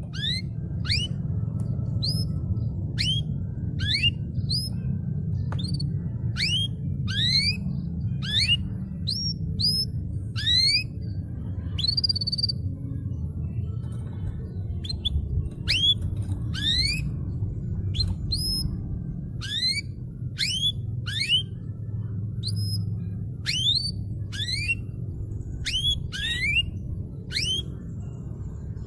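Canary calling with a long series of short, quickly rising chirps, about one or two a second, with a short pause about halfway through, over a steady low rumble.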